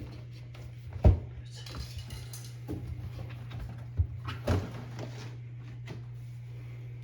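Knocks and scraping from hands and tools working on a washing machine's rubber door seal: a sharp knock about a second in, the loudest, then two more near the middle, with rubbing and rustling between, over a steady low hum.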